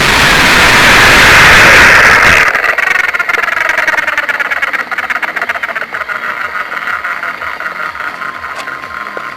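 Align T-Rex 500e electric RC helicopter: a loud rush of motor and rotor noise that cuts off sharply about two and a half seconds in, then a whine that slowly falls in pitch and fades as the rotor winds down.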